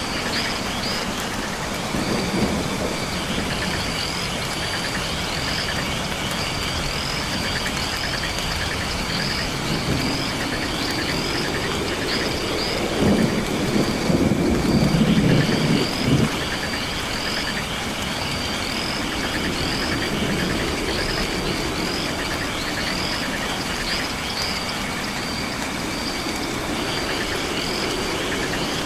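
Night rainforest ambience: steady rain with a high call repeating about once a second and a continuous high insect-like buzzing. A low rumble, like distant thunder, swells about halfway through and fades after a few seconds.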